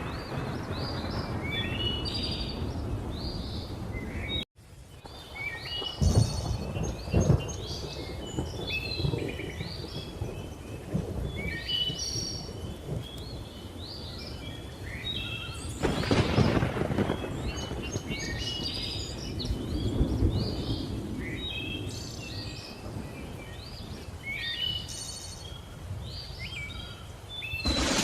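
Thunderstorm with rain and rolling thunder under a dense chorus of chirping birds; the thunder swells loudest about a quarter of the way in and again just past halfway. The sound cuts out completely for a moment about four seconds in, then returns.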